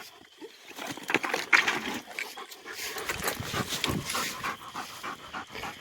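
Coonhound panting.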